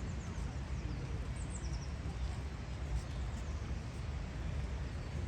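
Outdoor ambience: a steady low rumble under a few short, high, falling bird chirps.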